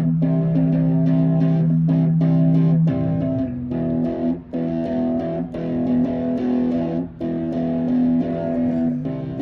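Guitar playing chords, with a low held note that changes pitch about three seconds in.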